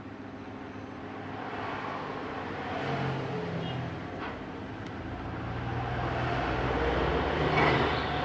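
A motor vehicle's engine running by, a low rumble that grows louder through the second half over a steady background hum.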